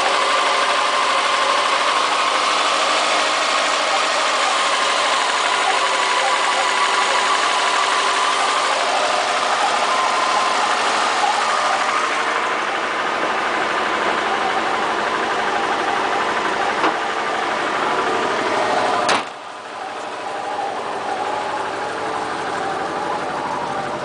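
2002 Subaru WRX's turbocharged flat-four idling with a light knock, which the owner takes for piston slap rather than rod knock, in an engine with low compression and misfires. A single sharp knock comes about four-fifths of the way through, after which the engine is heard more distantly.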